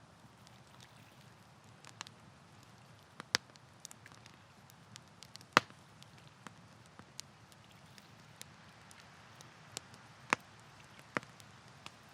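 Wood campfire crackling: sparse, irregular sharp pops over a faint steady hiss, the loudest pop about halfway through.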